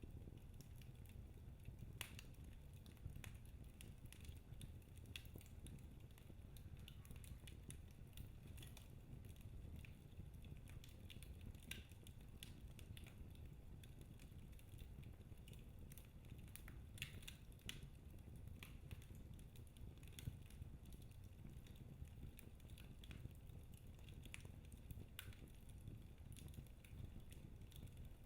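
Wood fire burning in a fireplace, crackling with irregular sharp pops over a faint low rumble of the flames.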